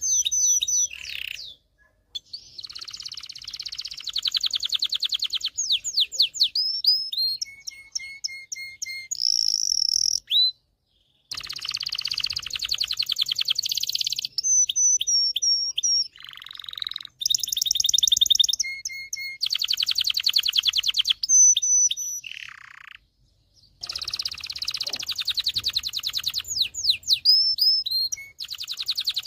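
A domestic canary singing: long, fast trills alternate with runs of short repeated whistled notes and chirps, broken twice by brief pauses.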